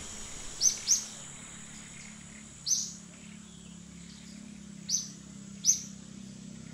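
A bird chirping: five short, sharp high-pitched chirps, two in quick succession near the start and three more spread out later, over a faint steady high whine and a low hum.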